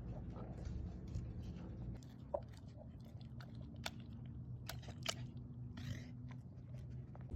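A puppy chewing and biting into a raw meat patty, with scattered short wet clicks and smacks, over a steady low hum.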